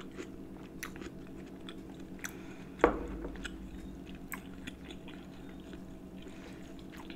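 Close-up mouth sounds of someone chewing tender beef pepper steak and rice with the mouth closed, with small wet clicks throughout. There is one louder knock about three seconds in.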